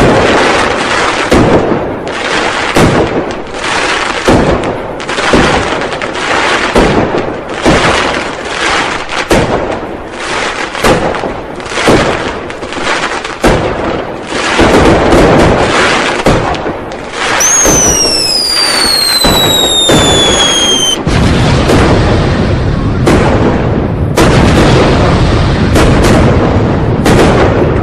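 New Year firecrackers and fireworks going off in rapid, overlapping bangs. About seventeen seconds in, a whistling firework gives a falling whistle for about three seconds that cuts off suddenly, and a denser, steadier crackle follows.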